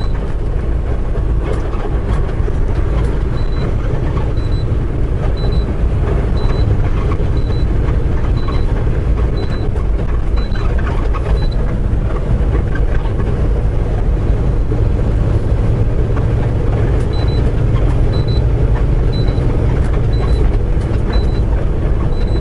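Steady engine and road drone heard inside a moving semi truck's cab at highway speed. A short, high beep repeats about once a second in two runs of several seconds each.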